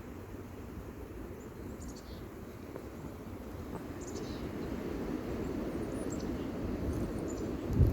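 Outdoor ambience: a low rumbling noise that grows louder from about halfway, with a few short bird chirps. A loud low thump near the end.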